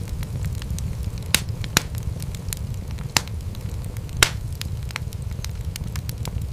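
Wood fire crackling in a fireplace: a steady low rumble of burning with frequent sharp pops and snaps, four of them louder than the rest.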